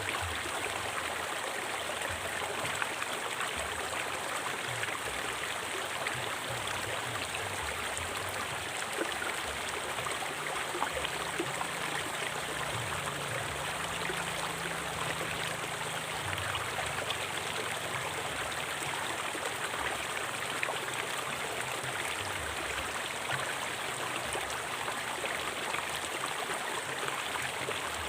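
River water flowing steadily, an even, continuous rush of stream noise.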